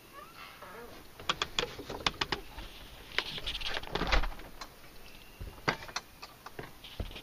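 Irregular run of sharp clicks and rustles in several clusters, the loudest about four seconds in.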